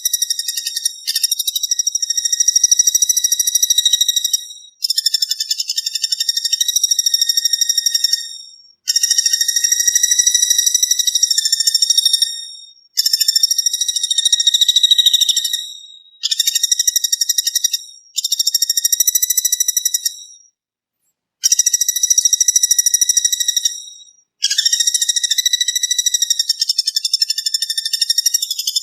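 Loud cicada-like insect buzzing, the 'brem' call used in songbird master recordings. It comes as a run of even, finely pulsed buzzes of about two to four seconds each, separated by short breaks.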